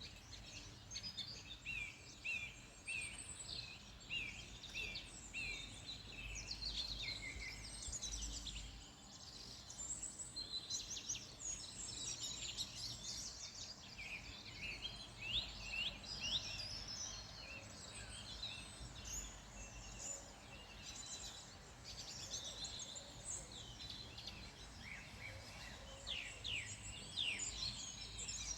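A chorus of several wild birds singing and calling at once: many short chirps, trills and quick falling notes overlapping, with a run of evenly repeated notes in the first few seconds.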